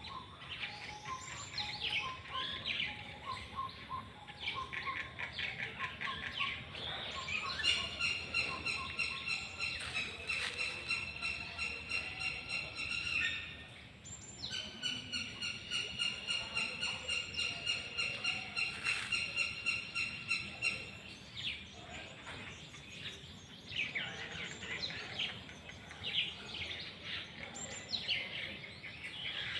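Birds chirping and calling in a busy chorus of short notes, with two long, evenly pulsing trills of about six seconds each in the middle.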